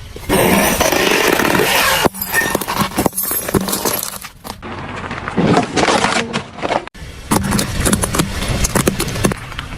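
A car's tyres rolling over and crushing crunchy objects: dense crackling, snapping and scraping in several short cut-together takes, with a low steady hum under some of them.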